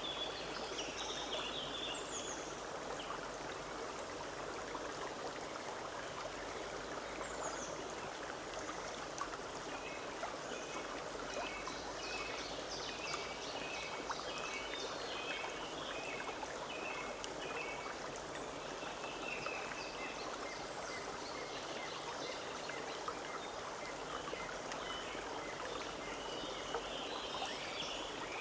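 Forest stream babbling steadily over rocks, with small birds singing above it: chirps at the start, a run of short repeated notes in the middle, and more chirping near the end.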